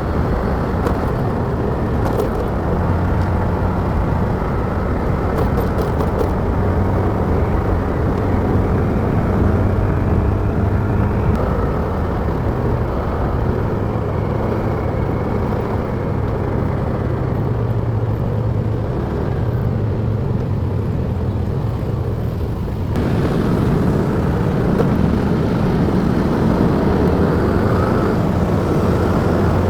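Motorcycle running while it is ridden through traffic, with a steady low engine hum and road noise. The sound gets louder and fuller about 23 seconds in.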